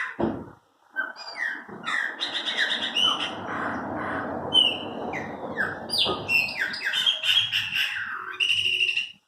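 Chopi blackbirds (pássaro-preto) singing, starting about a second in: a busy run of short downward-sliding whistles and buzzy rattling notes over a rough, gurgling chatter.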